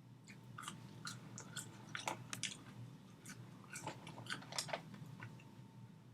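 Close-up mouth sounds of a person biting and chewing fast food: an irregular run of small crunchy, wet clicks that eases off about five seconds in, over a steady low hum.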